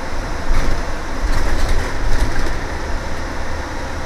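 School bus in motion heard from inside: steady engine and road rumble, with a run of clattering rattles from about half a second to two and a half seconds in.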